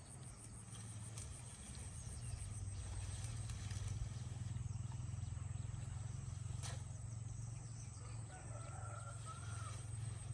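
A rooster crowing faintly in the second half, over a steady low hum.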